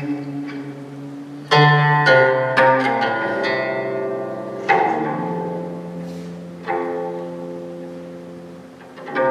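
Live instrumental music: a plucked zither, a guzheng, sounds single notes and small clusters that ring out and fade, over long held bowed low string notes.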